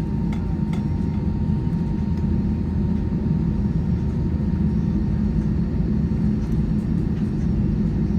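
Steady low rumble inside an airliner cabin after landing, from the aircraft's engines and air conditioning running.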